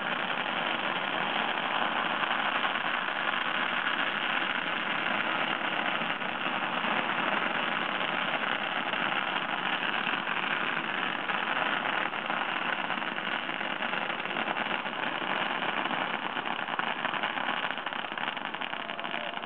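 Long string of firecrackers going off in a continuous, dense, rapid crackle at a steady level, easing slightly near the end.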